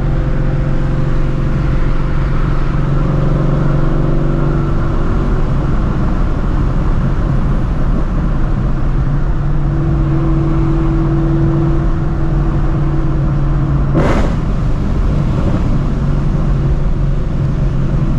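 The ProCharger-supercharged 5.2-litre flat-plane-crank V8 of a Shelby GT350, running steadily as the car cruises. A single sharp knock comes once, a few seconds before the end.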